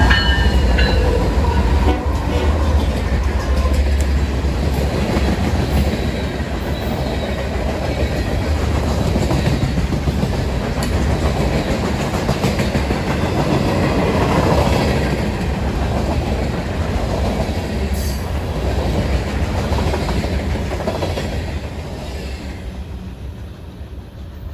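Diesel-hauled train rolling past the platform, with a heavy low rumble and wheels clacking over the rail joints, fading over the last couple of seconds.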